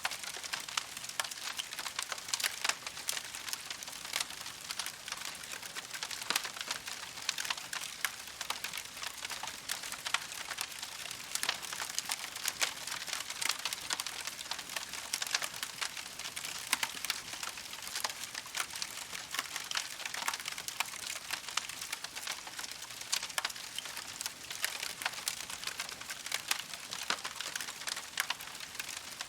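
Campfire crackling steadily: dense, irregular sharp pops and snaps over a soft hiss.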